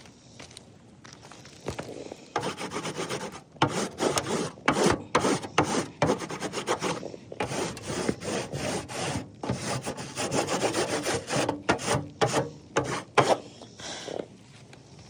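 Rough scraping and rubbing in many quick, irregular strokes, starting about two seconds in and stopping shortly before the end.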